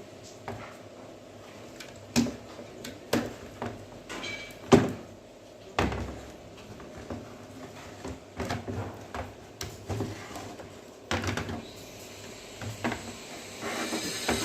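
Irregular plastic knocks and clicks from handling and working open an LED TV's plastic housing. The loudest knock comes a little under five seconds in, followed by a heavier thud.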